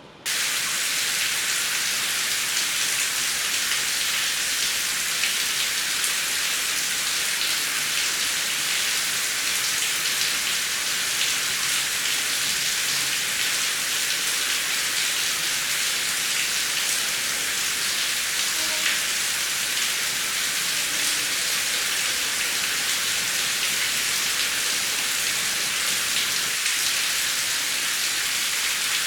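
Heavy rain falling, a steady hiss of many close drops. It starts abruptly just after the beginning and then holds steady.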